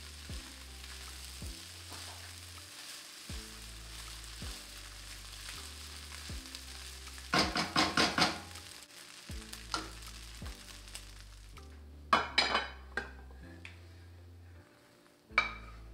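Fried rice sizzling in a hot wok while a silicone spatula stirs and scrapes it, with louder bursts of scraping about seven seconds in. The sizzle dies away about two-thirds through, followed by a few scrapes as the rice is tipped out of the wok.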